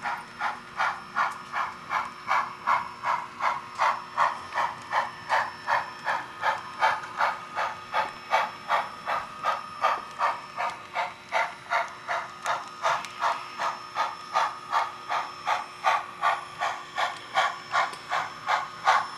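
Sound-equipped model steam locomotive chuffing steadily, about three exhaust beats a second, over a faint steady hum.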